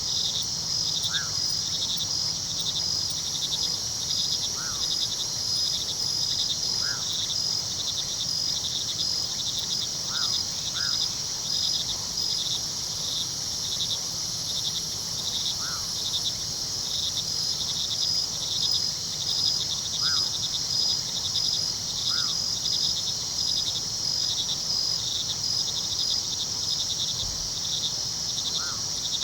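Crickets chirping steadily in a dense, fast-pulsing chorus, with short rising chirps every two to three seconds, over a low, even rush of river water.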